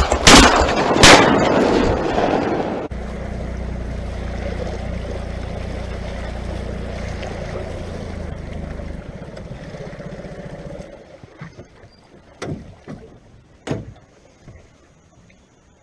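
Two shotgun blasts in the first second or so. Then comes a steady low drone of a boat's outboard motor running, which fades away about two-thirds of the way through, followed by a few sharp knocks near the end.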